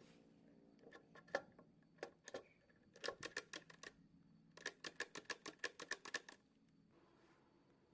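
Rapid, evenly spaced metallic clicking in two runs, about eight clicks a second, after a few scattered clicks. It is typical of a ratchet wrench being swung while fasteners are worked on the engine.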